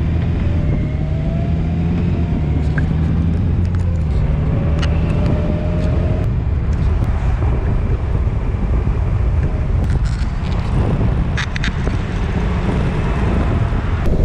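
Vehicle engine running with road noise while driving, the engine note rising twice in the first half as it picks up speed.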